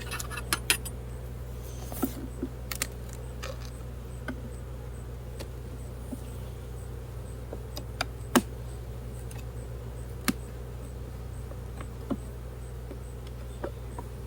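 Honey bees buzzing steadily around an open hive, with scattered sharp clicks and taps from wooden comb frames and hive parts being handled; the loudest click comes about eight seconds in.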